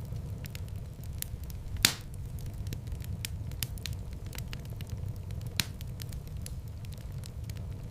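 Wood fire in a fireplace crackling, with many small snaps and two louder pops, one about two seconds in and one near six seconds, over a steady low rumble.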